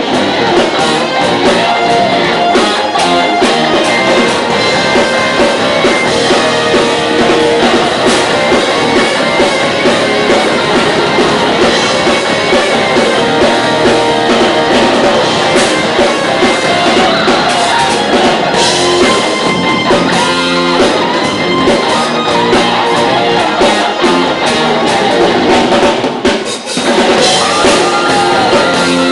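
Rock band playing live, with electric guitars and a drum kit, loud and continuous, with a momentary break near the end.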